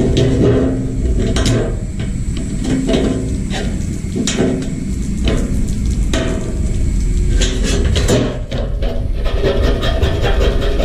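Irregular knocks, taps and scraping of hand work, several strikes coming in quick clusters, over a steady low rumble.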